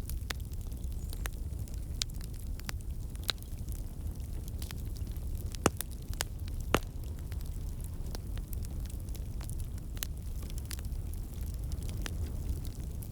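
Fire in a fireplace crackling: a steady low rumble of flames with scattered sharp pops and snaps, two louder pops about halfway through.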